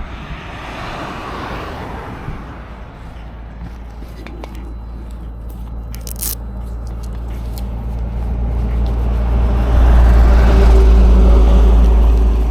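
Wind noise buffeting the microphone over a motorcycle's engine and road noise at highway speed. It grows louder and deeper toward a peak about ten seconds in, then eases slightly near the end, with a few sharp clicks about six seconds in.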